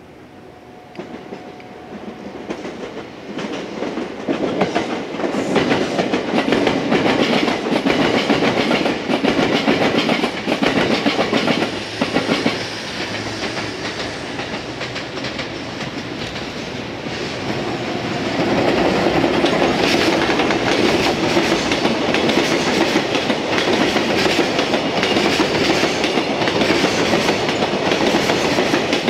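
Trains passing through a station: a JR freight train hauled by an EF210 electric locomotive and a red local electric train. The sound builds from faint to loud over the first few seconds. Partway through, the freight train's long string of loaded container wagons rolls past close by with a steady rattling clickety-clack of wheels over the rail joints.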